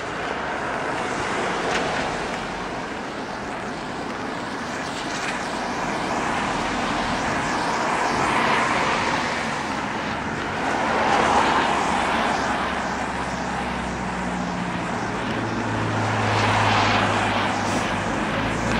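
Traffic passing on a rain-wet street: tyre hiss swells and fades as vehicles go by, several times, with a low engine hum from a nearby vehicle coming in about three quarters of the way through.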